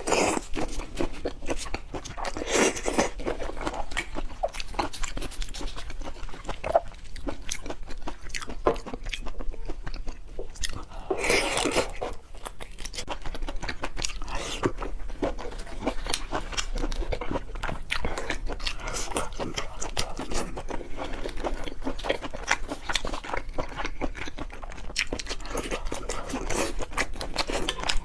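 Close-up mouth sounds of a person eating seafood: biting and chewing with a dense run of small crunchy clicks, and a few louder bites about 3 and 11 seconds in.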